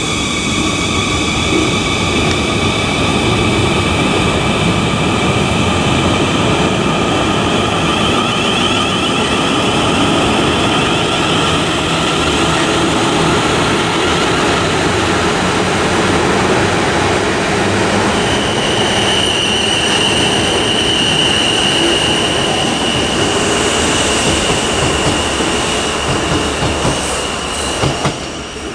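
Passenger train running through the station, a continuous heavy rumble with high whining tones that slowly fall in pitch. About two-thirds of the way through a steady high wheel squeal sets in, and the sound eases off near the end.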